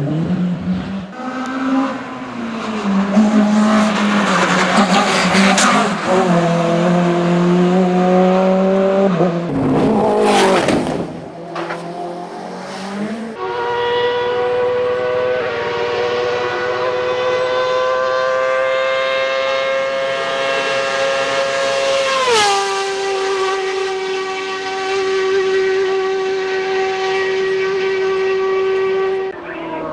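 Race car engines running hard, in several shots cut together. Later one car runs at a high, slowly rising pitch, then its note drops sharply as it passes close, about three-quarters of the way in.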